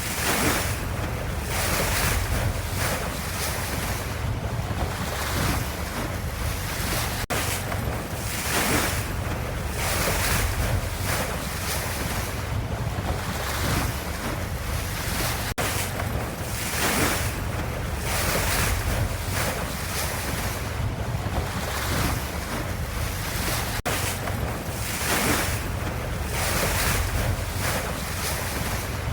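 Ocean waves washing: a steady low rumble under hissing swells of water that rise and fall every second or two.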